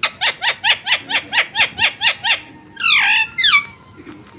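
Indian ringneck parrot giving a rapid run of short, sharp chirps, about six a second for two and a half seconds, then two swooping squawks about three seconds in.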